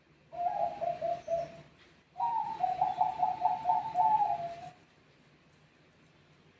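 Zebra dove (perkutut) cooing song: a short phrase of quick, rippling notes, then after a brief pause a longer phrase of about eight rapid notes that falls a little in pitch at its end.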